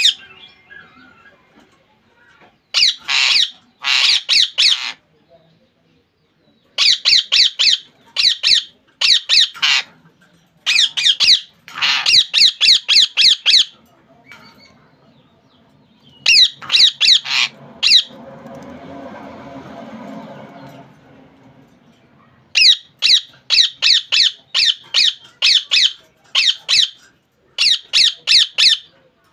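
Ringneck parrot squawking in repeated runs of rapid, shrill calls, each run lasting one to two seconds with short pauses between. A softer, steady noise rises for a few seconds in the middle.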